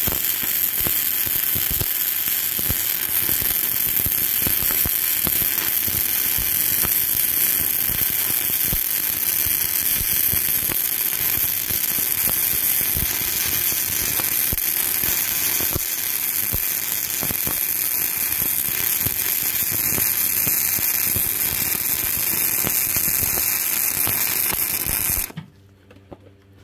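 Self-shielded flux-core welding arc burning Lincoln NR-211 5/64-inch wire, a steady crackle that cuts off suddenly near the end as the arc is broken.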